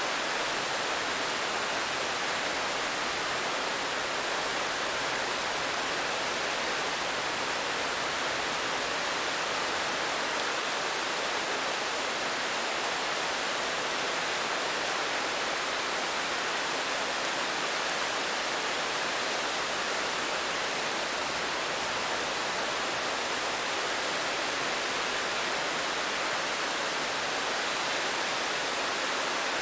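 Rain falling as a steady, even hiss, with no single drops or other sounds standing out.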